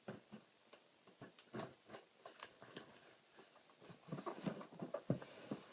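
Handling a taped cardboard shipping box: irregular clicks, scrapes and rustles of tape and cardboard as it is worked open, busier near the end.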